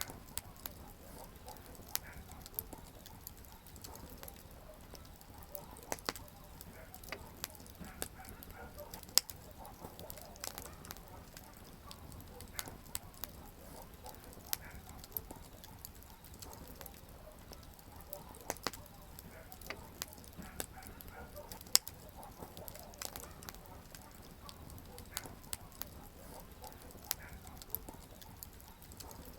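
Wood campfire crackling: irregular sharp pops and snaps from the burning firewood over a soft, steady hiss of flame, with two louder pops, about nine seconds in and again near twenty-two seconds.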